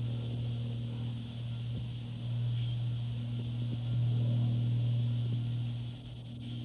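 A steady low drone that swells and dips, with a brief dip near the end.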